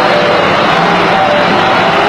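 Tractor diesel engine running steadily and loudly, with an even low hum.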